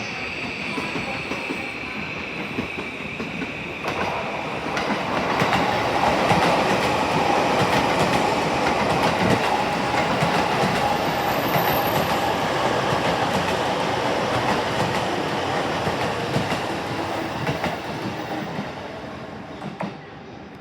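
Electric train running along the platform, its wheels clattering over the rail joints, growing louder a few seconds in and fading away near the end.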